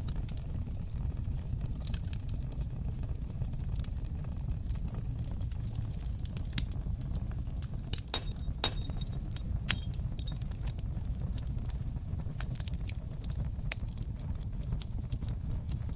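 A fire in a fireplace crackling, with a steady low rumble of flames under irregular sharp pops and snaps. The pops come thickest around the middle, and the loudest single pop is near the middle.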